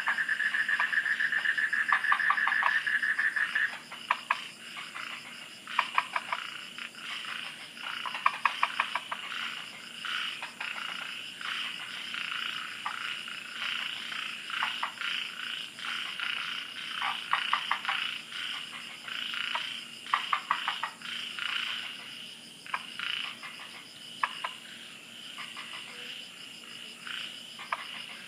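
Night chorus of frogs calling in rapid pulsed trains, many overlapping, over a steady high insect drone. One long unbroken trill stops about four seconds in.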